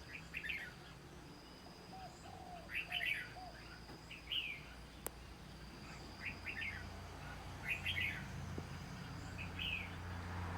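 Small birds chirping in short quick clusters every second or two, with a few soft low calls in between. A faint steady high whine runs underneath, and a low hum grows in the last few seconds.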